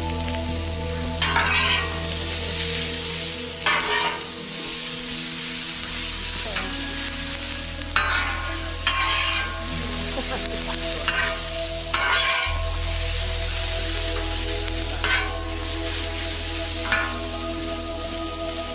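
Sliced bell peppers sizzling on a flat-top griddle while two metal spatulas toss and scrape them, giving about eight short scraping clatters over the steady sizzle.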